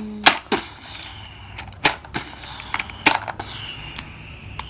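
Hard plastic toys being handled and knocked together: a string of sharp, irregular clicks and knocks.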